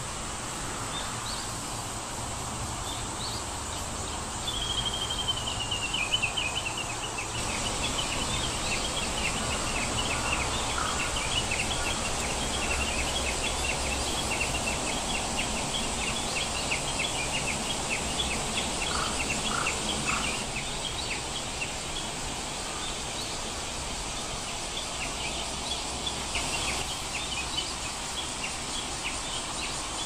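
Birds chirping many times over a steady outdoor hiss, beginning with a falling whistled call about five seconds in.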